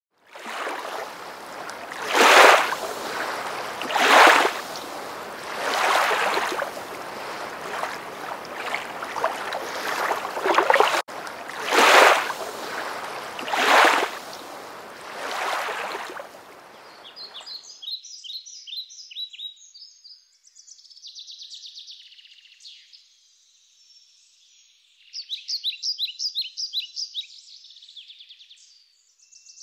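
Water rushing in waves that swell about every two seconds, cutting off sharply a little over halfway through. After that, a songbird sings quick, repeated high trills.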